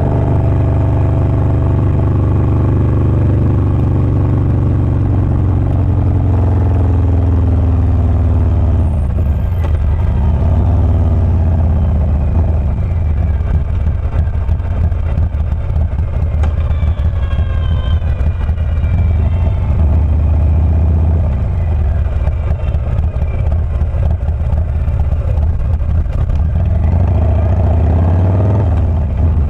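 Harley-Davidson Low Rider S 117's Milwaukee-Eight 117 V-twin with a Wood Performance 777XE cam, its exhaust rumbling under way. The engine speed falls off over the first several seconds, then rises and falls, and climbs again near the end.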